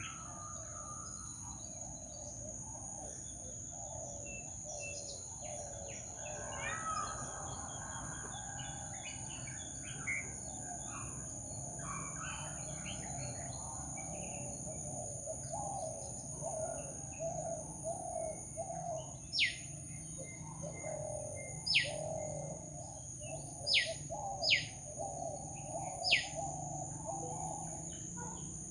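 Mixed wild birdsong: many birds chirping, with a run of low, rapidly repeated notes in the second half and five loud, sharp whistles sweeping sharply downward near the end, over a steady high-pitched whine.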